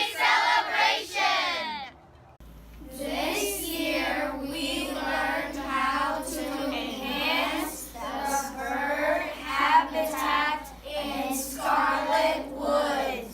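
A group of children's voices, then from about two seconds in a group of children singing together in sustained notes.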